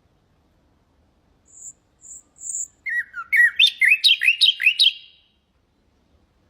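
Nightingale singing one song phrase. About a second and a half in come three short, very high notes, then a loud run of seven or so quick slurred notes that stops abruptly about five seconds in.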